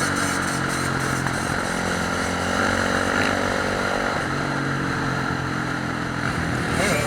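Dirt bike engines running in a steady drone, the pitch shifting a couple of times as the throttle changes.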